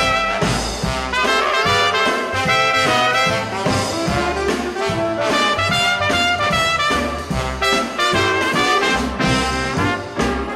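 Instrumental break of an up-tempo swing-style song: brass, trumpets and trombones, playing the melody over a steady bass beat, with no singing.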